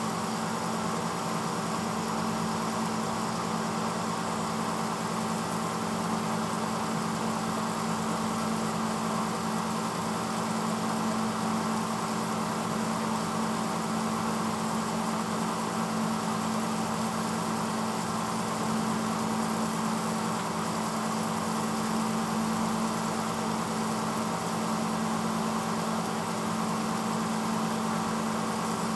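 1986 Hotpoint Potwasher dishwasher running mid-cycle: a steady motor hum with an even rushing noise over it, unchanging throughout.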